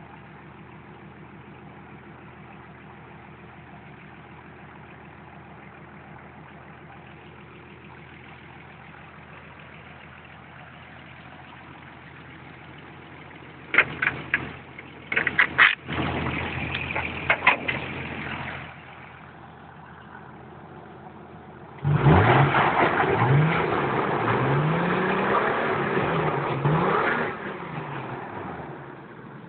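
Nissan 300ZX Z32's VG30DE 3.0-litre V6, with tubular headers and dual aftermarket exhaust, idling smoothly and steadily. Partway through come a few sharp knocks, and later the engine is revved up and down several times over about five seconds before dropping back to idle.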